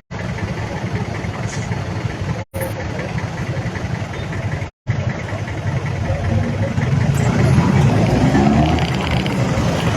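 Motorcycle engine running during a ride, with a steady rumble that grows louder and rises in pitch from about two-thirds of the way in. The sound cuts out completely for an instant twice.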